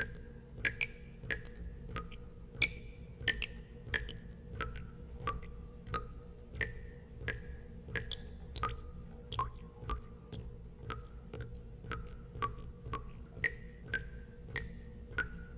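Water drops falling into water one after another, each a short pitched plink, about two or three a second at uneven spacing and varying in pitch, over a steady low hum.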